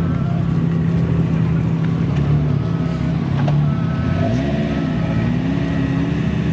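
Sports car engines idling steadily, with a brief dip and rise in pitch a little past four seconds in.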